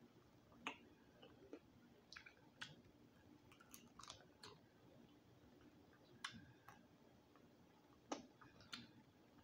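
Faint chewing of roasted quail, the meat gnawed off the bone by hand: scattered short, sharp mouth clicks and smacks, about one a second.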